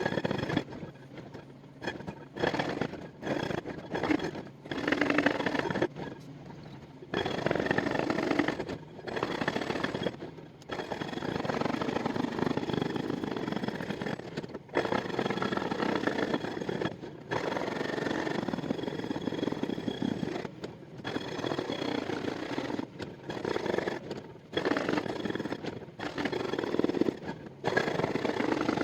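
Excavator-mounted hydraulic breaker (hoe ram) jackhammering bedrock in a rapid, steady pounding, in bursts of one to four seconds with short pauses between them.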